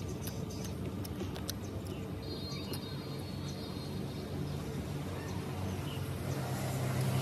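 Mouth sounds of a person eating by hand: chewing with soft sharp clicks and smacks, mostly in the first couple of seconds, over a steady low hum that grows louder near the end. A brief high chirp comes a couple of seconds in.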